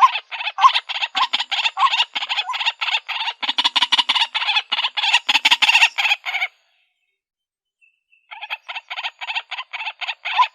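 White-breasted waterhen calling: a fast run of repeated harsh notes, about five to eight a second, that stops abruptly after about six and a half seconds and starts again about two seconds later.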